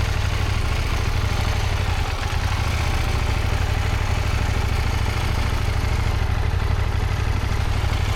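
Motorcycle engine running steadily at low revs, with a heavy low rumble and no revving.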